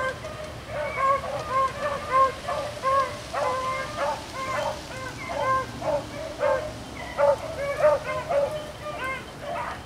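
Beagles baying on a rabbit's trail, their short, arching cries repeating several times a second and overlapping as the hounds run the rabbit.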